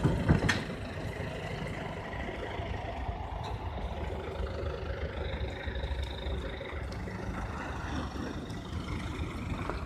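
Motor vehicle engine running with a steady low rumble, with a couple of sharp knocks in the first half-second.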